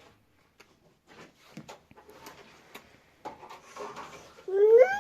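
Faint handling clicks and rustles, then near the end a small child breaks into a loud, drawn-out whining cry that rises in pitch and holds.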